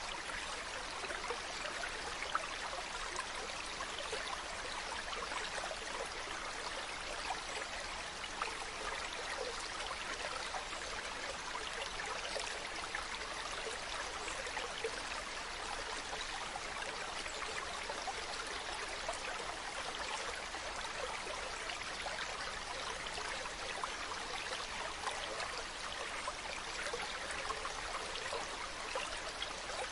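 Mountain stream running over rocks: a steady, even rush of flowing water with fine splashing.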